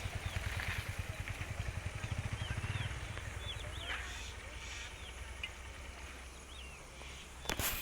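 Small birds chirping again and again over a low, pulsing rumble that eases off after about three seconds; a sharp knock near the end.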